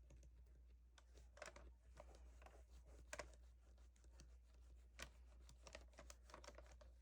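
Near silence with faint, scattered small ticks and scratches of a chrome paint-marker tip working over a small resin truck casting, over a steady low hum.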